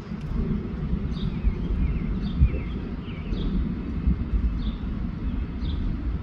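Wind buffeting the microphone with a rough, uneven rumble, while a bird chirps over it again and again, about once a second.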